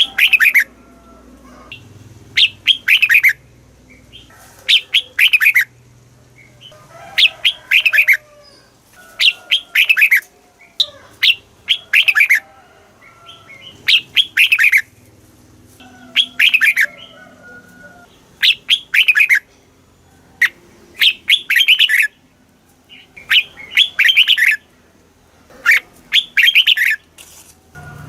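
Red-whiskered bulbul singing: short, loud phrases of quick whistled notes, each phrase repeated about every two seconds.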